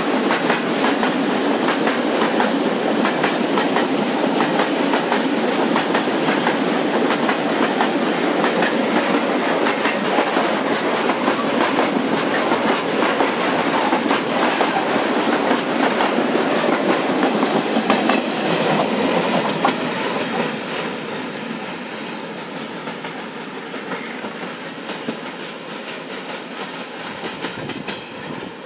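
Freight train wagons rolling past on the rails, with a rapid clickety-clack of wheels over the rail joints. Loud and steady for most of the time, it fades after about 20 seconds as the train moves away.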